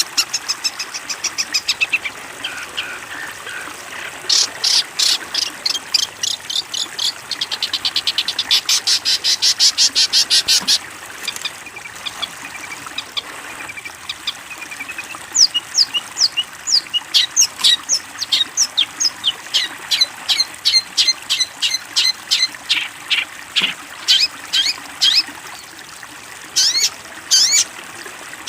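Long-tailed shrike (cendet) singing: a fast run of high repeated notes that speeds up into a rattle, then after a short pause a long string of sharp, high chips about two to three a second.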